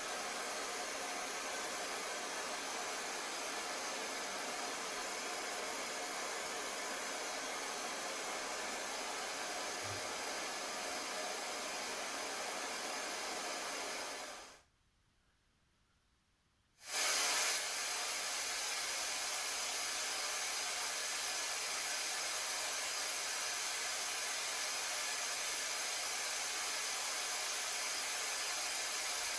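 Small Ritmix SP-520BC portable speaker playing steady test noise (white and pink noise), a flat hiss with little bass. It stops for about two seconds a little before halfway, then resumes slightly louder.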